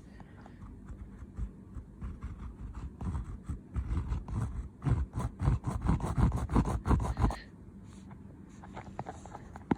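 Close scraping and rustling as small stationery items and their packaging are handled. A dense run of quick clicks and scrapes builds about three seconds in and stops sharply after about seven seconds, followed by a few faint clicks and one sharp click near the end.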